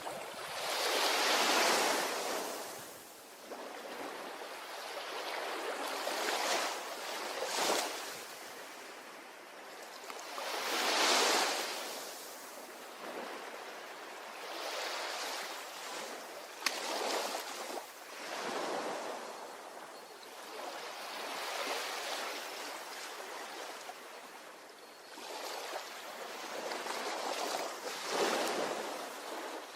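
Ocean waves breaking and washing up a beach, each wash swelling and fading every few seconds. There is one sharp click about two-thirds of the way through.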